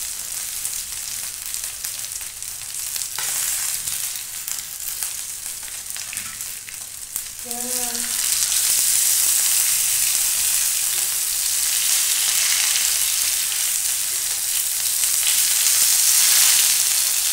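Boiled potatoes sizzling in hot oil on a flat griddle pan, shallow-frying to brown and crisp the outside, while they are turned with a slotted metal spatula. The sizzle gets louder about halfway through.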